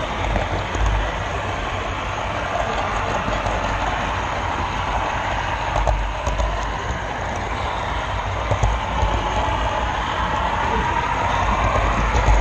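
Model train running on the track, heard from a camera car riding the rails: a steady rolling rumble with a motor whine that rises and falls in pitch, and a few sharp clicks as the wheels cross rail joints.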